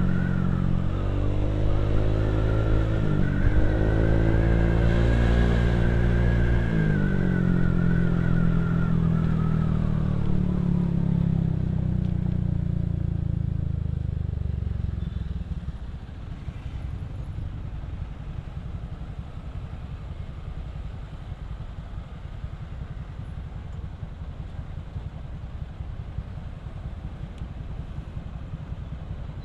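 Motorcycle engine and exhaust pulling hard, the pitch climbing, dropping sharply twice (about three and seven seconds in) and climbing again. The engine then eases off and, from about halfway through, settles into a steady, quieter low idle.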